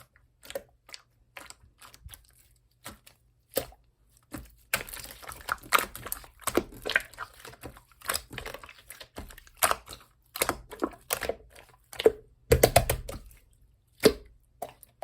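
Pink clear slime being pressed and poked by hand, making irregular sticky clicks and pops. A denser crackling run comes in the middle, and a heavier, lower squish comes near the end.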